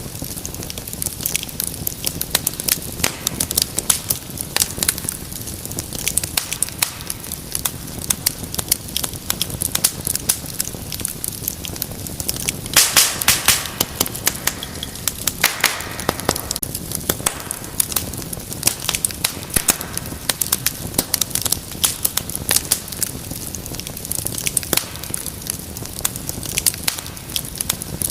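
Wood fire crackling, with a dense run of sharp pops and snaps. A louder flurry of pops comes about halfway through, followed by a brief hiss.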